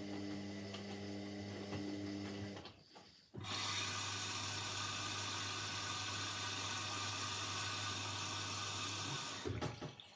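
Indesit 71252 washing machine: a steady pump hum dies away. After a short pause, water hisses into the machine for about six seconds over a low electrical hum, typical of the water inlet valve filling for the next stage. It shuts off with a few clicks.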